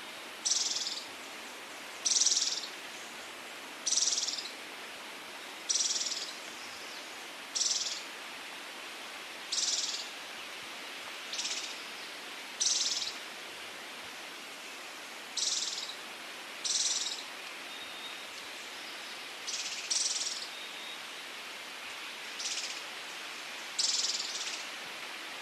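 Scaled antbird calling: a short, high call of about half a second, repeated every one and a half to two seconds, over a steady background hiss.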